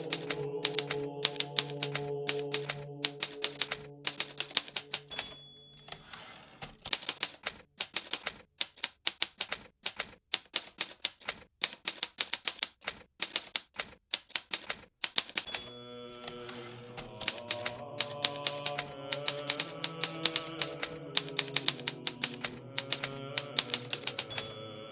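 Hermes Baby manual typewriter being typed on at a quick, uneven pace, the keys striking in a dense run of sharp clicks. A short high ding sounds three times, about five seconds in, near the middle and near the end, fitting the typewriter's end-of-line bell. Soft background music sits under the typing, dropping out for about ten seconds in the middle.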